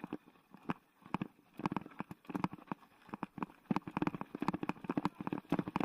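Mountain bike clattering over a rough trail: a fast, irregular run of knocks and rattles.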